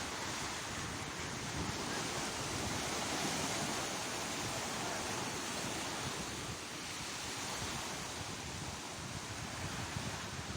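Sea waves breaking and washing on the shore: a steady surf noise that swells and eases, with wind buffeting the microphone.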